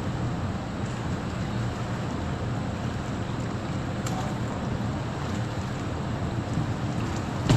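Steady wind rumbling on the microphone over open water, with a faint wash of water. There is a brief louder bump at the very end.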